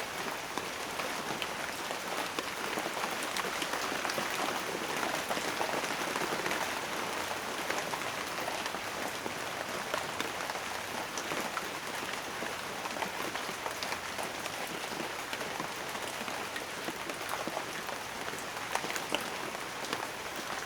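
Steady rain falling on a hard surface, a dense even patter with scattered sharper drop ticks throughout.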